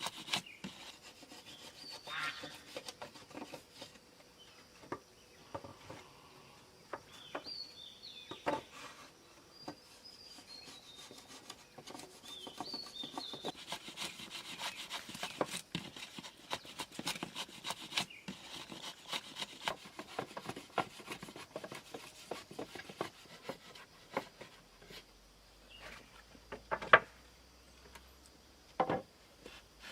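Hand tools working wood: irregular rubbing and scraping strokes, with birds chirping now and then and two sharp knocks near the end.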